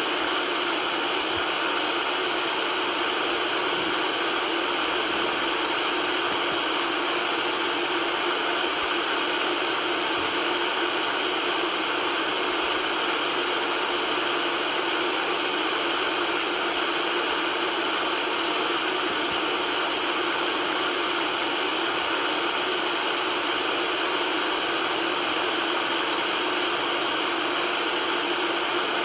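Steady white noise: an even, unbroken hiss that is thin in the deep bass and full through the middle and treble.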